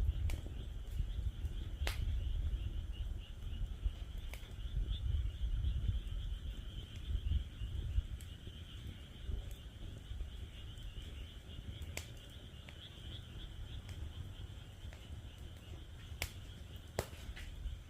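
Wood fire in a fire pit crackling with scattered sharp pops, over a low rumble. Behind it, frogs call in a steady high-pitched trilling chorus.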